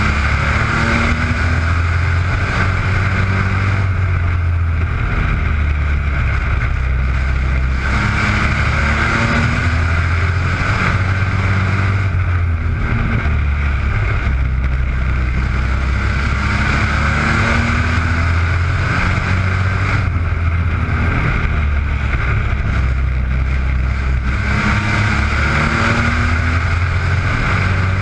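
Mini truck race engines running together at racing speed, their notes rising and falling and the sound swelling every several seconds as the pack goes by.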